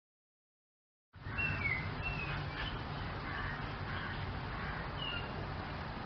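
Silence, then about a second in an outdoor ambience cuts in suddenly: a few short, high bird chirps over a steady low background noise.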